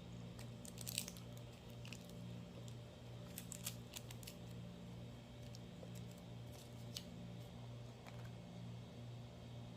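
A few short, sharp clicks and snips, one about a second in, a cluster a little past three seconds and one near seven seconds, over a low steady hum that pulses about twice a second.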